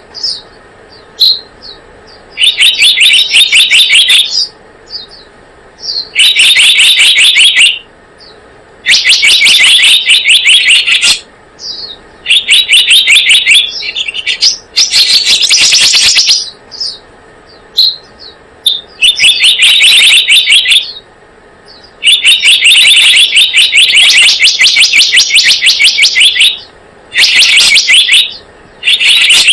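Bird-lure recording of the selendang biru's call: loud bursts of rapid, high chattering trills, each a second or two long, repeating every couple of seconds with short pauses.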